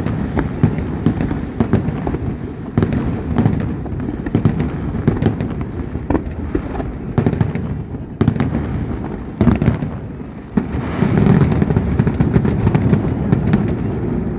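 Fireworks display going off without pause: rapid sharp cracks and bangs over a steady rumble of explosions, growing denser and louder about ten seconds in.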